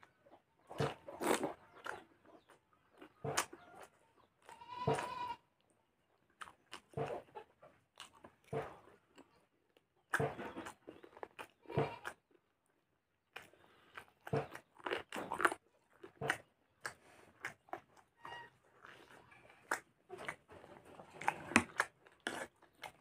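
Close-miked eating: a person chewing and smacking on spoonfuls of chicken stew with rice, in irregular bursts with short pauses between mouthfuls.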